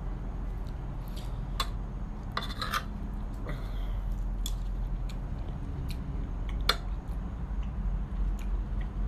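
Scattered light clicks and taps of small objects being handled, one sharper click near the end of the seventh second, over a steady low hum.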